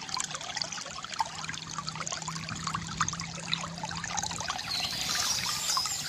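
Small stream trickling and gurgling over stones, with birds singing in the higher register near the end.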